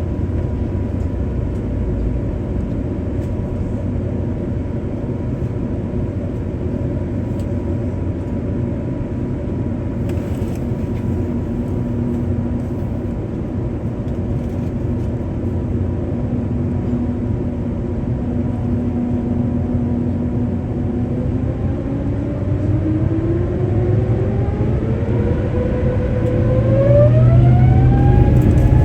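Cabin noise of an Airbus A350-900 on the ground: a steady low rumble with a faint engine hum. About two-thirds of the way in, the Rolls-Royce Trent XWB engines spool up, a whine of several tones rising together and growing louder near the end, as thrust is set for the takeoff roll.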